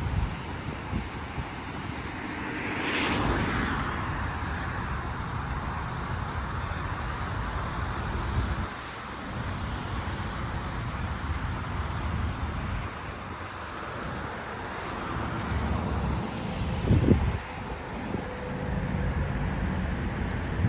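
Steady traffic noise from a nearby highway, with one vehicle swelling and fading about three seconds in, and wind buffeting the microphone.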